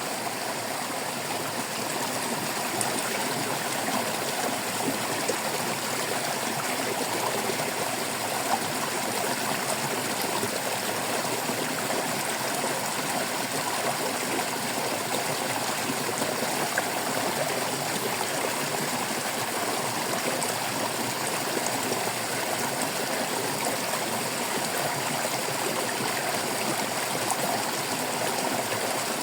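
Flowing stream water babbling steadily without let-up.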